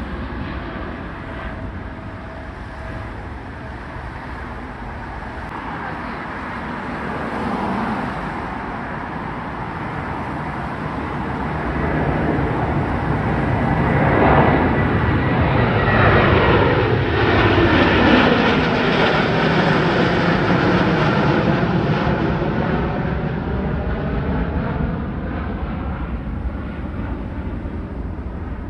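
Jet airliner departing on its takeoff climb, engine noise swelling to its loudest about halfway through and slowly fading, with a whine sliding down in pitch as it passes.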